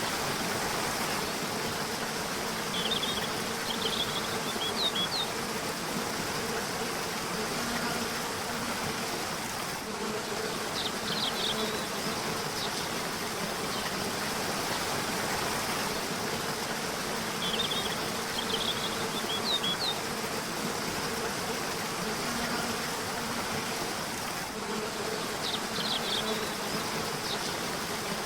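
Steady rushing water of a river or waterfall, with short bursts of quick, high bird chirps about every seven seconds.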